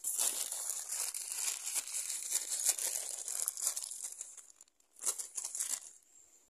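A small bag crinkling and rustling as it is handled, a continuous stretch of about four and a half seconds, then a second shorter burst after a brief pause.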